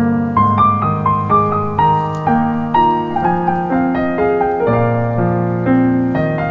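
Background piano music, a gentle melody of single notes over sustained low chords.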